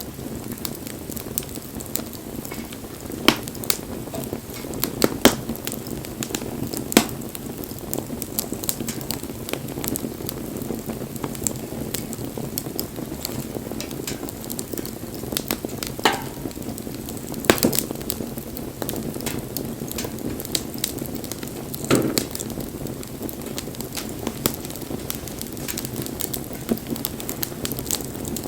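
Wood bonfire burning: a steady hiss and rustle of flames broken by sharp crackling pops every few seconds, about half a dozen of them standing out louder than the rest.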